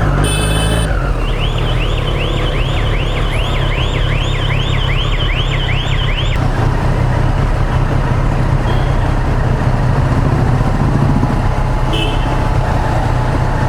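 Motorcycle riding in city traffic, with steady engine and wind rumble. A short horn-like blast sounds at the start. About a second in, an electronic siren begins to warble, rising and falling about two and a half times a second, and it cuts off after roughly five seconds.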